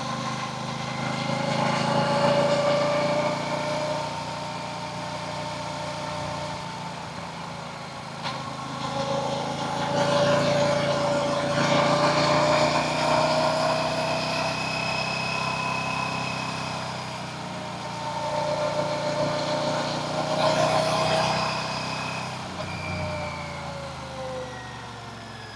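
Royal Enfield Classic 650's 648 cc parallel-twin engine and exhaust, revving with its pitch rising and falling in several long swells, loudest around the middle. This is the stock exhaust note, which the reviewer finds disappointing and nothing like the Classic 350.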